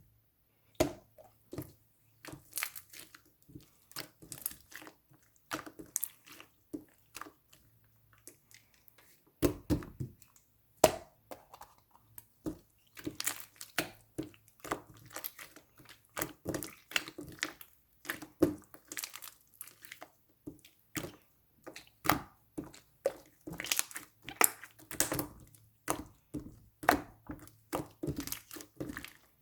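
Blue slime being squeezed and worked by hand, giving irregular sticky clicks and crackles in quick clusters, with a few brief pauses.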